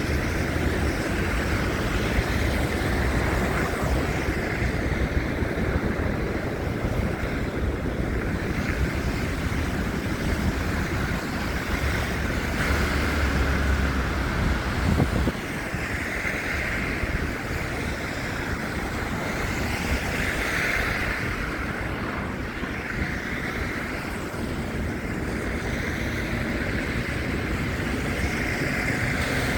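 Wind buffeting a phone's microphone over a steady wash of city traffic; the low rumble drops away suddenly about halfway through.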